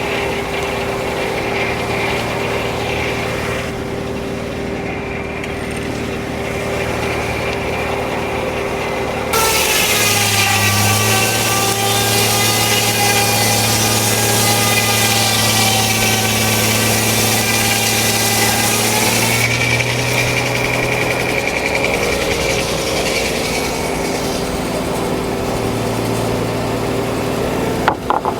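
Frick No. 1 sawmill's circular blade running, then about nine seconds in it enters the log and cuts for about ten seconds, a loud rasping saw noise over the power unit. The power unit's pitch drops as it takes the load of the cut and comes back up as the blade clears the log. There is a sharp knock near the end.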